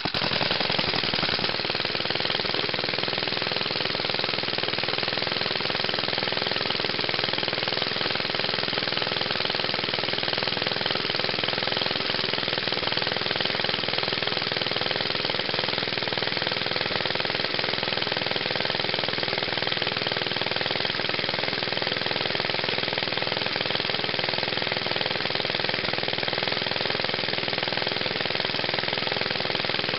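Single-cylinder four-stroke Briggs & Stratton Model 6-S engine running steadily with a rapid chatter, its firing picking up speed right at the start.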